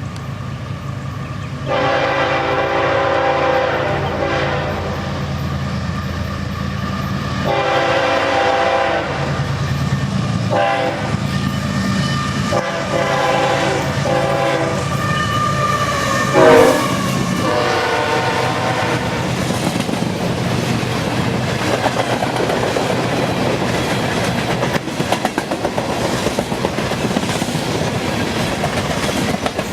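Locomotive air horn sounding the grade-crossing signal of two long blasts, a short one and a long one, over a low engine rumble. Its pitch drops as the locomotive passes at the loudest point, about halfway through, and then the cars roll by with a steady clickety-clack of wheels over rail joints.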